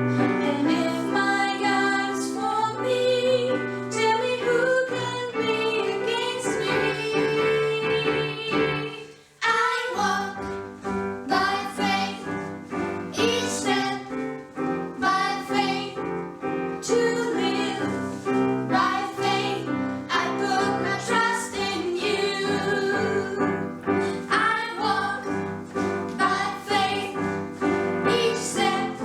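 A song with voices singing over a piano-led backing. The music drops out briefly about nine seconds in, then starts again.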